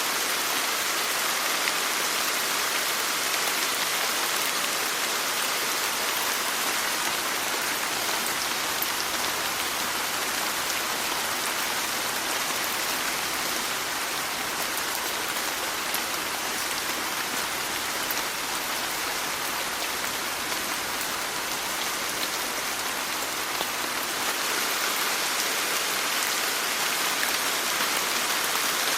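Steady rain falling on a surface, a dense even hiss with fine scattered drop ticks.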